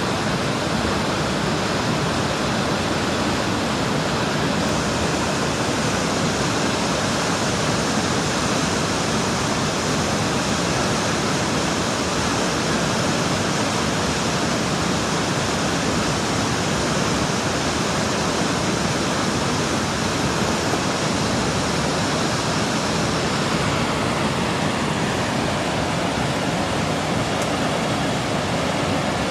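Mountain river water rushing steadily, a dense, even rush with no breaks.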